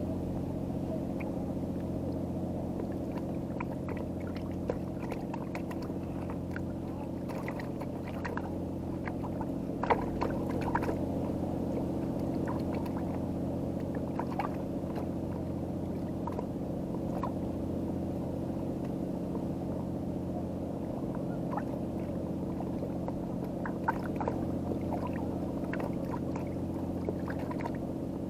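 Boat engine idling with a steady low hum, and a few scattered light clicks and knocks over it, the sharpest about ten seconds in.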